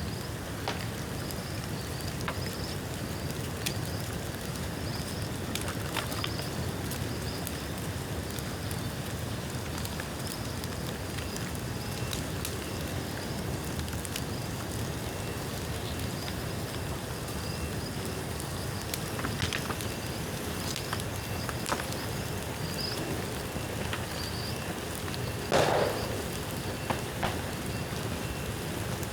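A bonfire of bamboo, damp from rain, burning with a steady rushing hiss and scattered sharp crackles and pops. One louder crackling burst comes near the end.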